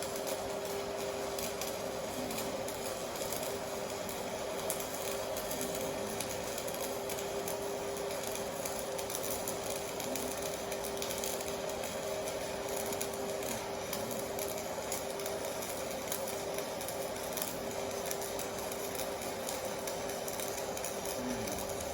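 TIG welding arc from a Stahlwerk AC/DC TIG 200 inverter welder, burning continuously: a steady tone over an even hiss, without a break.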